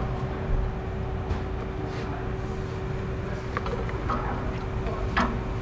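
Steady low mechanical hum with a constant drone, with a few light metallic clicks and taps from tools, mostly near the end.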